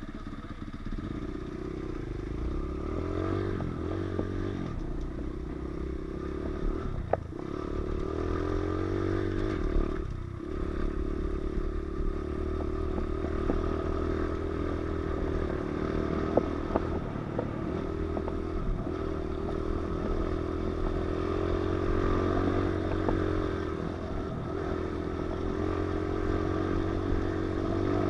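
Pit bike engine running under way at a fairly steady speed, its pitch shifting only slightly, with a few sharp knocks and rattles from the bike.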